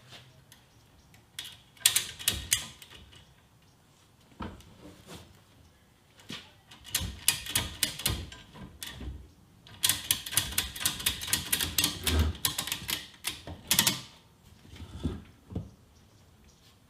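Ratchet tie-down strap being cranked tight, its ratchet mechanism clicking rapidly in several bursts, with the longest run near the middle.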